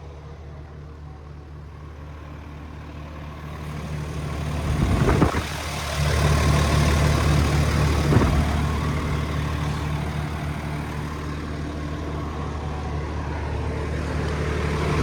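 Kenworth T270 dump truck's 8.3-litre PACCAR (Cummins-built) diesel running steadily, growing louder about four to six seconds in and staying louder. Two short knocks come through about five and eight seconds in.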